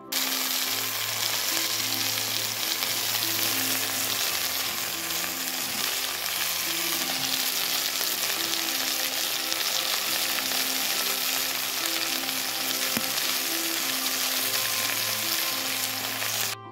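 Food frying and sizzling in a hot pan, a dense steady hiss that starts and stops abruptly, with background music underneath.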